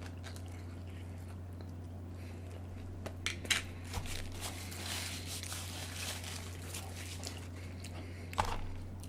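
Close-miked eating sounds: a few sharp crunches and clicks around three to four seconds in, a stretch of chewing and rustling of food packaging, and another click near the end, over a steady low hum.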